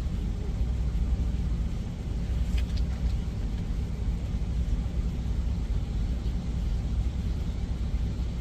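Idling truck engine, a steady low rumble, with a faint short tick about two and a half seconds in.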